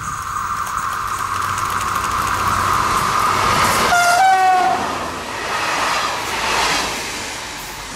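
Vintage SNCF X 2800 diesel railcar and its trailers passing close at speed, engine and wheels growing louder as it approaches. About halfway through, as the railcar comes alongside, it sounds a short two-tone horn blast. The trailers then roll past with wheels clattering over the rail joints.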